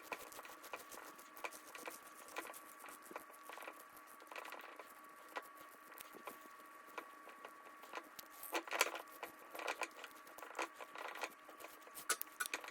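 Faint, irregular ticking and rustling of old braided line being pulled by hand off a baitcasting reel's free-spooling spool, with a louder run of ticks about two-thirds of the way through and again near the end.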